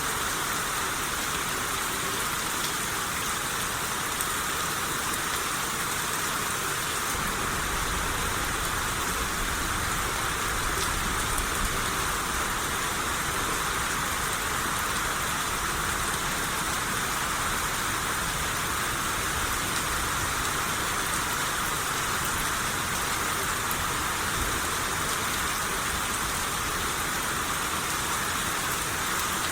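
Steady rain shower falling, an even hiss of rain on surfaces with no pauses, with a slight low rumble under it from about a quarter of the way in.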